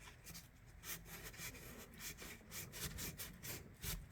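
Fine 600 grit sandpaper rubbing back and forth on the rusted steel of an old pocket knife, working rust out of the blade channel. The quick scratchy strokes are faint and start about a second in.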